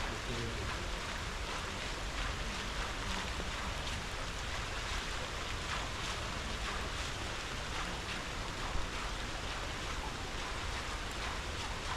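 Steady rush of river water in the Jesmond Dene falls, with rain falling.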